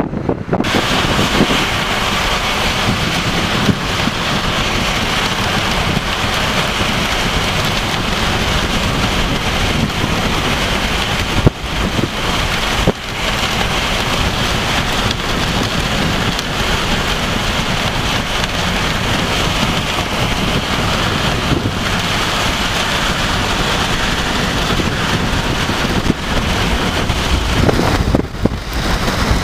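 Heavy thunderstorm rain with wind: a steady, dense hiss that starts abruptly just after the start and dips briefly about twelve seconds in and again near the end.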